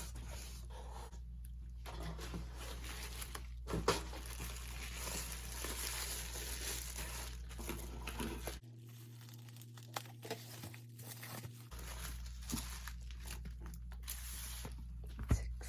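A cardboard shipping box being opened and unpacked by hand: tearing and crinkling of tape and packing material, with a few sharp knocks as the contents are handled.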